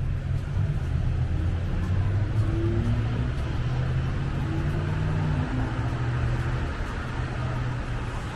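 A motor vehicle's engine running close by, a low steady hum that shifts in pitch about two-thirds of the way through, over a constant noise of road traffic.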